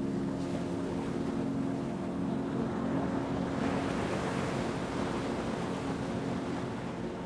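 Ocean waves: a wave washes in, swelling to its peak around the middle and ebbing away. Beneath it runs a steady, low ambient drone of held tones, like a singing-bowl pad.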